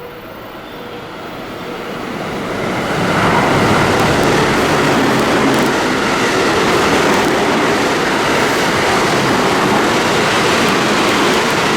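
A train passing through the station at speed without stopping: wheel-on-rail noise grows over the first three seconds as it approaches, then stays loud and steady as the cars go by.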